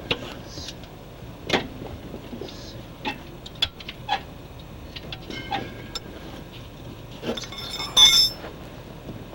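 Hand tools clinking and tapping on metal while the exhaust manifold stay is unbolted: a string of short, irregular clicks and clinks, with one louder ringing metallic clink about eight seconds in.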